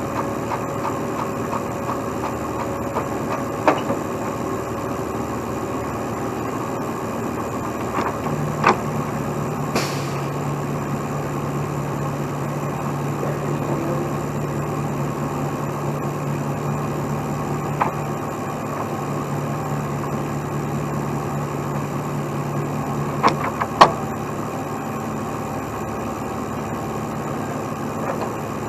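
Heavy truck diesel engine idling steadily, with a few sharp metal clanks; a steady low hum joins from about eight seconds in and drops away about fifteen seconds later.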